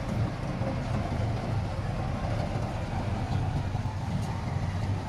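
Diesel engine of heavy earthmoving equipment running steadily, a low even rumble.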